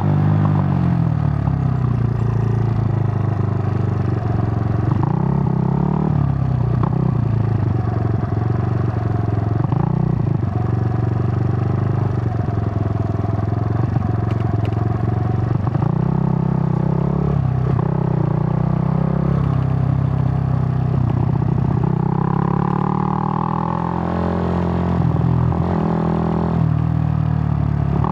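Suzuki GN125's single-cylinder four-stroke engine running on the road, its revs repeatedly climbing and dropping away as the bike accelerates and shifts gear.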